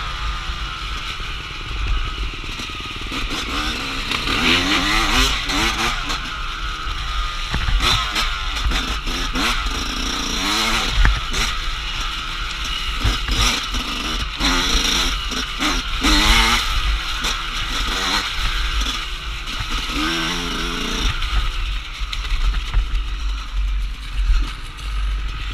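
Dirt bike engine on an enduro trail ride, revving up and down repeatedly as the rider works the throttle, with scattered knocks and clatter.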